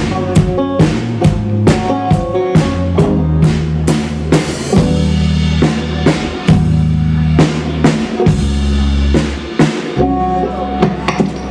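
Live band playing an instrumental passage: a drum kit keeps a steady beat of snare and bass-drum hits over sustained bass notes and other pitched instruments.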